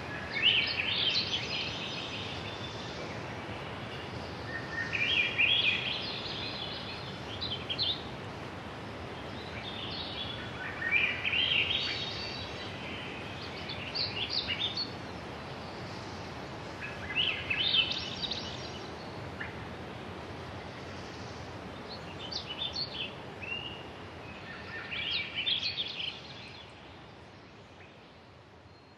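A bird singing short chirping phrases, one every three to five seconds, over a steady outdoor hiss. The whole fades out near the end.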